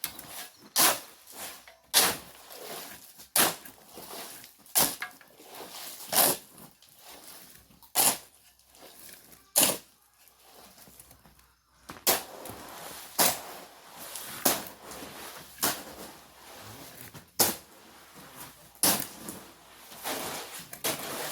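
Shovel scraping and turning a wet concrete mix of sand, gravel and water, short rough strokes about one every second and a half, with a break of a couple of seconds about halfway through.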